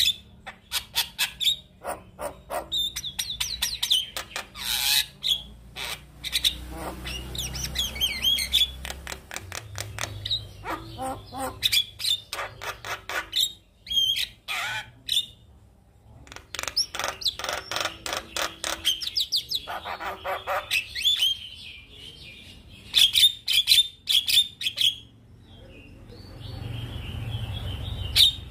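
Male Javan myna singing a long, varied song: runs of rapid clicking chatter mixed with whistled notes, broken by a few short pauses.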